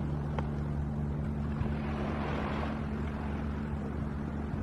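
A steady low engine drone with a hiss of wind or rushing air over it, swelling a little about halfway through.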